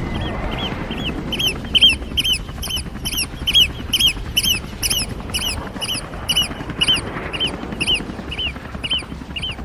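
Eurasian oystercatchers giving their shrill piping alarm calls, a fast even series of short notes about three a second, as they mob a drone. Under them runs a low rumble.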